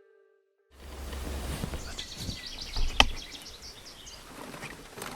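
Outdoor ambience starting after a brief silence: a low wind rumble with small birds chirping rapidly. One sharp click about three seconds in is the loudest sound.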